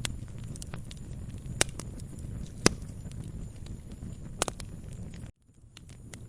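Wood fire burning in a fireplace: a steady low rumble of flames with scattered sharp crackles and pops, the loudest about two and a half seconds in. The sound cuts out abruptly a little after five seconds and fades back in.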